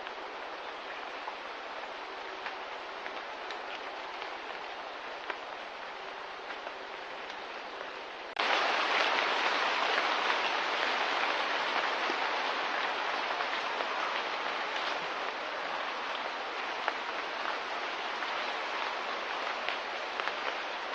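Steady ambient hiss with faint scattered ticks, which jumps abruptly louder about eight seconds in and stays there.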